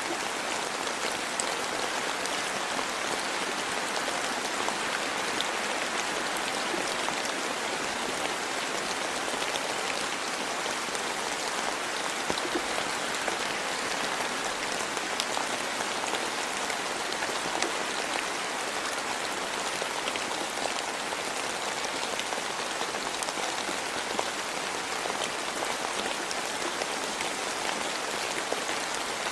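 Steady rain falling, a continuous even hiss with fine drops pattering throughout.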